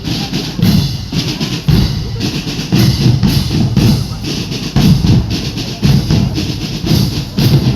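Marching drum band playing: bass drums and snare drums beating out a steady, loud rhythm.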